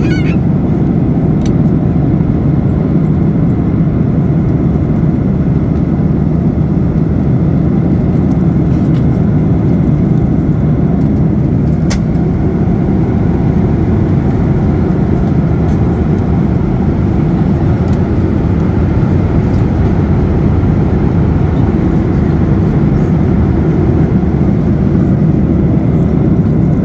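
Boeing 737-800 passenger cabin in flight: a steady, low roar of the engines and airflow, unchanging throughout, with a faint click or two.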